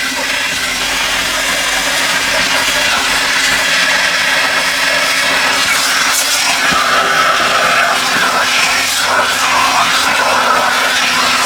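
A machine motor running steadily under a strong, even hiss, with a low hum throughout.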